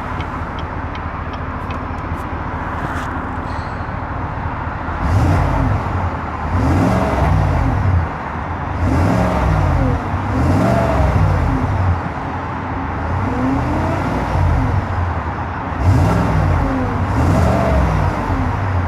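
The 2018 GMC Yukon Denali's 6.2-litre V8 idles steadily for about five seconds. It is then blipped several times in a row, the pitch rising and falling back to idle with each rev.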